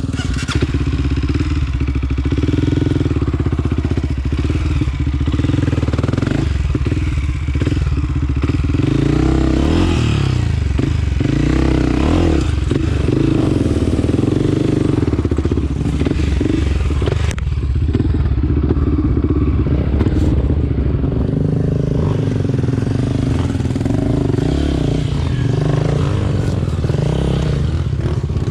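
Honda CRF250F trail bike's single-cylinder four-stroke engine running under changing throttle, heard from the rider's helmet-mounted camera, with a few sharp knocks from the bike over the ground.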